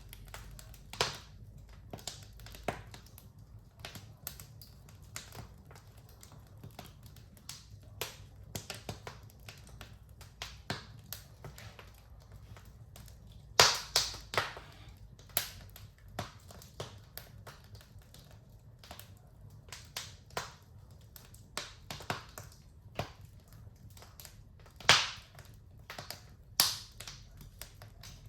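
Wood fire crackling in a fireplace: irregular sharp snaps and pops, with two louder pops, one about halfway through and one near the end.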